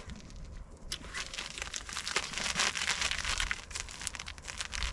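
Plastic groundbait packet crinkling and rustling as it is handled and torn open to be emptied into the bucket.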